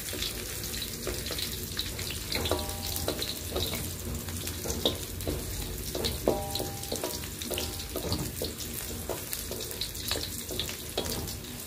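Sliced garlic, ginger and shallots sizzling steadily in hot oil in a wok, with many small pops and a wooden spatula stirring and scraping them: aromatics frying until golden.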